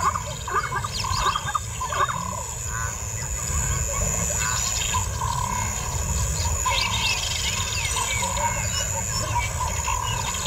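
Outdoor wildlife ambience: birds chirping in short scattered calls over a steady high-pitched buzz and a low rumble.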